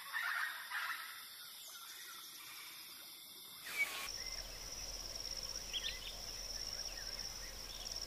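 Wild birds calling: a few short harsh calls in the first second. Then the sound changes suddenly to a steady high-pitched tone with a few thin chirps over it.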